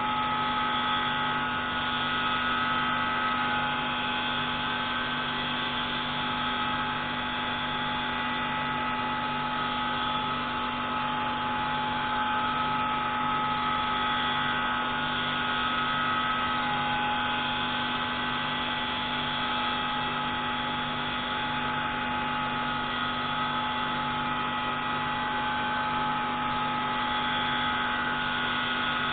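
Pneumatic valve-grinding tool running steadily while grinding a marine-engine intake valve, a constant mechanical whir with a few steady tones and a low note that pulses about once a second.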